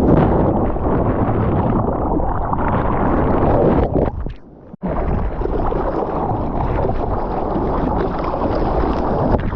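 Strong wind blasting the microphone over rushing sea water in the surf. The noise drops away suddenly for under a second about four and a half seconds in, then comes back as before.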